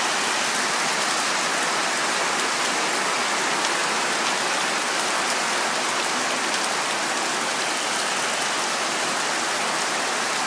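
Heavy rain mixed with small hail pelting down on a wet street and a plastic tarpaulin, a dense, steady hiss with fine ticking through it.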